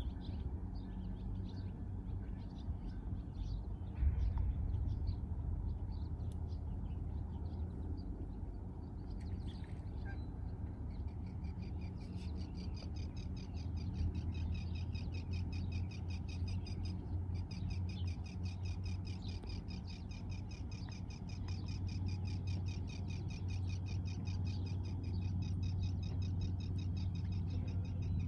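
Birds chirping over a steady low rumble. From about twelve seconds in, a fast, even, high-pitched trill runs on without a break.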